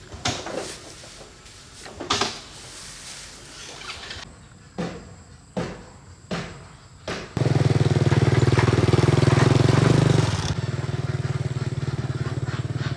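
Several short strokes, then a small petrol engine catches suddenly and runs loudly for about three seconds. It then settles to a slightly lower, steady running speed.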